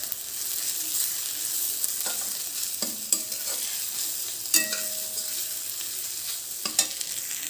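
Onions and ground spices sizzling in oil in a steel kadhai while a metal spatula stirs them, scraping and clicking against the pan now and then.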